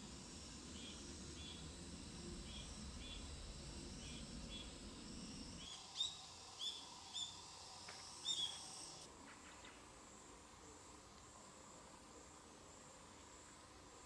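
Faint, high, thin chirps of a small bird: soft chirps at about two a second, then four louder, sweeping chirps between about six and eight and a half seconds in, over a low rumble that stops just before them.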